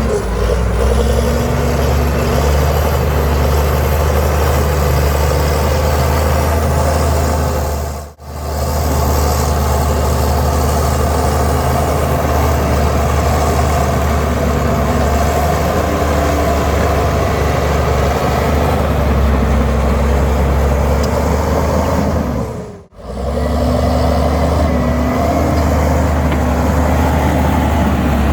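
Heavy diesel earthmoving machinery running steadily, a deep drone of engine noise. The sound drops out briefly twice, about eight seconds in and again near the end.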